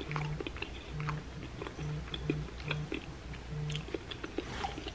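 A person chewing a fried croquette with a crushed-Cheetos crust, mouth closed: many small wet mouth clicks and smacks. Short, faint low hums pulse at irregular intervals underneath.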